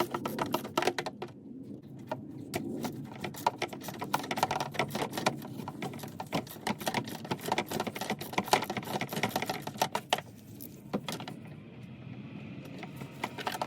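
Ratchet wrench clicking in rapid runs as the under-tray bolts are undone, easing off to a few scattered clicks near the end.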